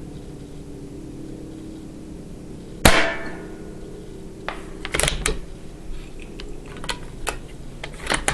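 CCM M40 bolt-action paintball rifle firing one shot about three seconds in: a sharp crack with a short ring. Then a string of metallic clicks and clacks as the bolt is worked for the next round.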